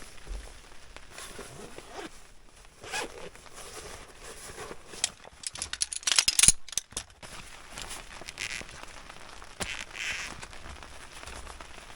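Rustling handling noises with scattered sharp clicks, and a loud crackling burst about six seconds in.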